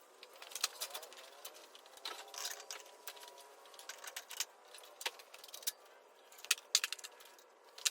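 Irregular sharp metallic clicks and clinks, like hand tools and metal parts being handled in shop work.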